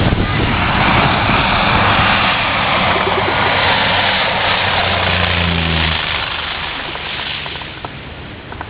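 Propeller plane passing low overhead on its landing approach. Its engine and propeller are loud, drop in pitch as it goes by about five seconds in, then fade away.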